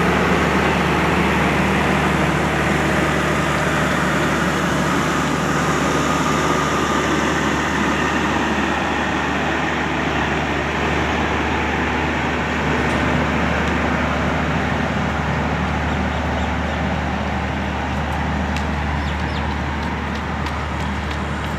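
A large engine running steadily, a constant low hum under loud rushing noise that eases slightly toward the end.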